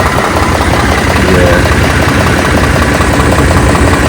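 Truck engine idling close up with a fast, even exhaust ticking: an exhaust leak, which the buyer suspects is a leaking exhaust manifold with snapped manifold bolts on one side.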